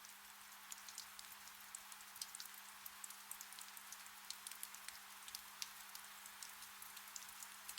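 Gentle rain falling in a forest: a soft, even hiss with many small, quick drop ticks scattered through it. A faint, steady low hum runs underneath.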